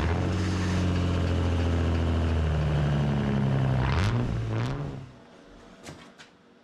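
A car engine running loudly and steadily, its pitch shifting twice before it dies away about five seconds in, followed by a few sharp clicks.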